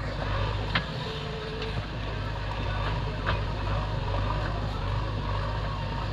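Diesel engine of heavy machinery running steadily, with a few sharp knocks, the loudest about a second in and another about three seconds in.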